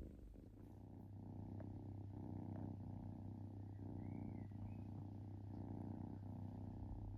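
Kitten purring in a steady rhythm that swells and eases about once a second, with each breath in and out.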